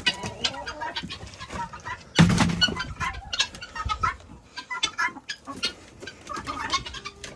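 Backyard chickens clucking while at their feed, with many short calls and ticks, and a louder burst of noise about two seconds in.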